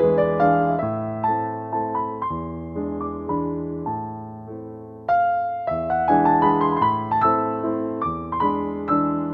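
Piano music: chords and melody notes struck and left to die away, thinning out about four seconds in, then coming back fuller just after five seconds.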